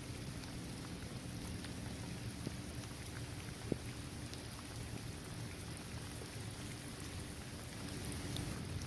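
Steady rain falling on a hard court surface, trees and grass, with scattered individual drop ticks and one sharper drip a little over three and a half seconds in.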